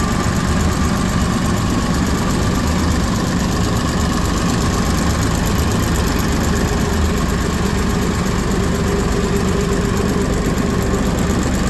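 Lister JP3 three-cylinder diesel engine driving a three-phase generator, running steadily at constant speed with an even beat.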